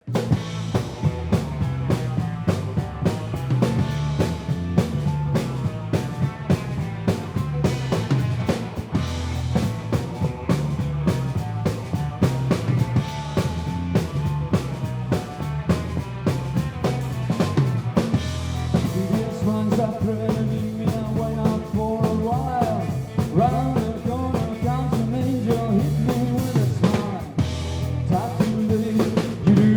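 Rock band music: a drum kit keeps a steady beat over bass. About two-thirds of the way through, a melodic line of bending, sliding notes comes in over it.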